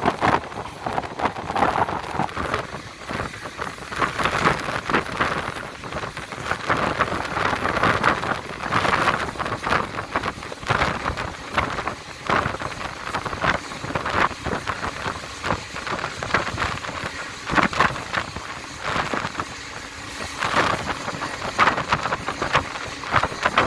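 Passenger train running, heard from on board: a steady rush of wheel, track and wind noise, with irregular clatter and knocks from the wheels and coach.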